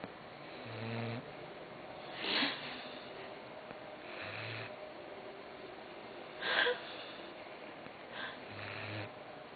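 A sleeping dog snoring: three short, low buzzing snores about four seconds apart, with louder, hissy puffs of breath between them.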